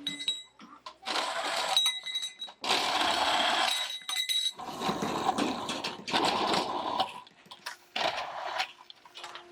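Metalworking noise from steel crash-guard parts being worked: four separate bursts of one to two seconds each, with metallic clinks between them.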